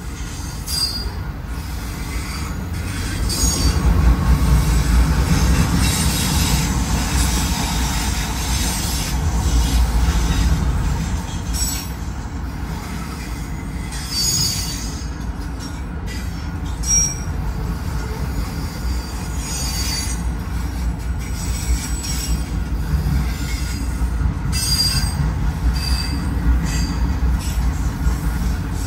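Freight train of autorack cars rolling past: a steady rumble of steel wheels on the rails, with brief high-pitched wheel squeals coming and going. It is loudest a few seconds in.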